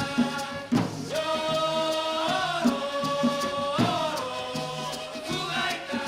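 Colombian gaita, the cactus-bodied duct flute of San Jacinto, playing long held notes that swoop up and down, over hand drums beating a steady rhythm.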